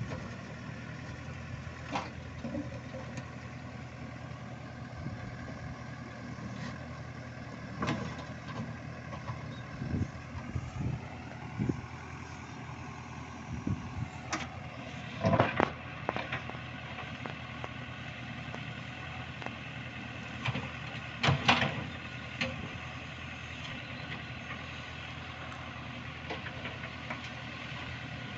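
ACE AX-124 backhoe loader's diesel engine running steadily. Short knocks and clanks from the machine at work break in every few seconds, the loudest about halfway through and again about three-quarters of the way through.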